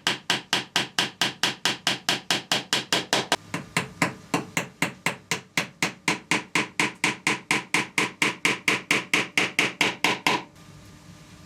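Steady, fast hammer taps, about four a second, each with a slight ring, stopping abruptly near the end.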